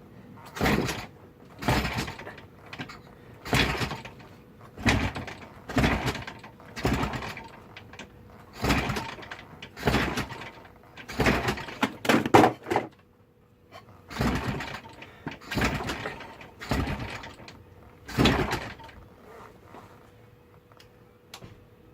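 Jawa 350 two-stroke twin being kicked over repeatedly, about fourteen kick-start strokes roughly one every second and a half, with a short pause midway, the engine turning over without catching. The owner suspects fuel is not getting through.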